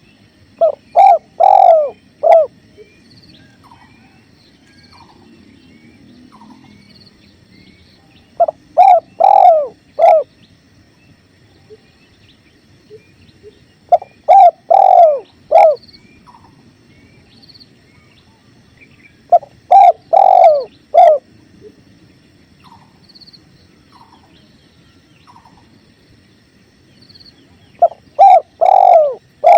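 Spotted dove (tekukur) cooing: five phrases of four or five deep coos, one note in each held longer, spaced several seconds apart, over faint steady river flow.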